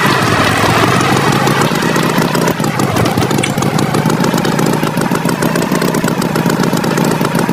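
Tractor engine idling steadily with a fast, even chugging rhythm.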